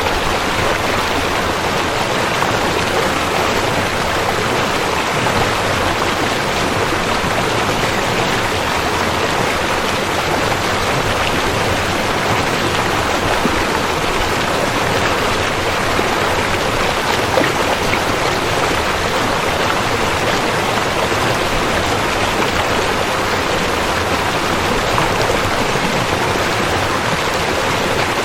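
River water flowing, a steady, even noise with no breaks.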